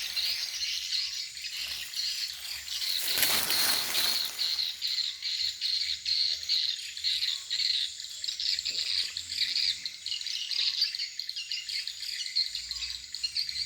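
Swiftlet calls: dense, fast, repeating high chirping, the kind of lure calls a swiftlet house plays through tweeters to draw birds in. About three seconds in there is a brief rush of noise, about a second long.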